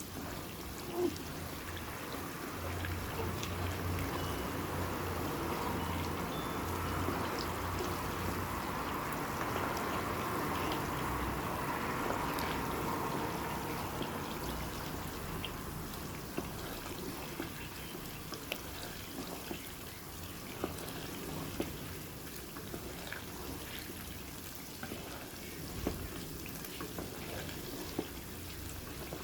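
Hot oil sizzling, with many small crackles, loudest in the first half.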